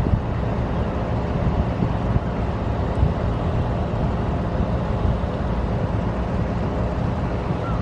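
Motor yacht engines running with a steady low rumble as the boat cruises past.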